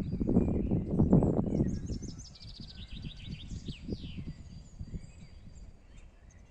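Small birds singing: a quick run of high chirps about two and a half seconds in, with scattered calls after. A louder low rumbling noise fills the first two seconds, then dies down.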